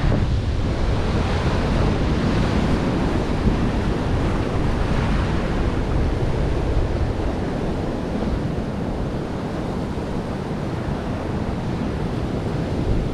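Ocean surf washing in, a steady rush that swells and eases, with wind buffeting the microphone.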